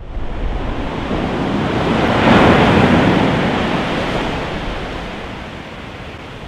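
Ocean surf: a wave breaks loudly about two seconds in, then its wash slowly fades.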